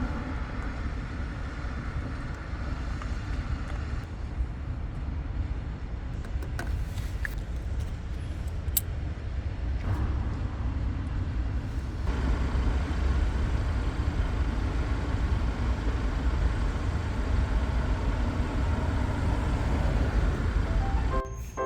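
Hyundai Santa Fe DM's R 2.0 diesel running, heard as a steady low rumble with noise that shifts in level twice, as if cut between takes. Music comes in right at the end.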